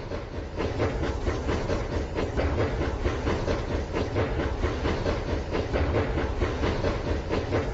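Rail King toy train running along its track: a fast, steady clatter over a low rumble, getting a little louder about a second in.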